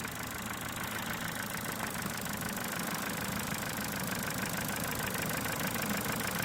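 Ford Mondeo 4's 1.6 petrol engine idling with a rapid, diesel-like ticking clatter. The owner suspects it comes from the valves or the valve tappet buckets but does not yet know.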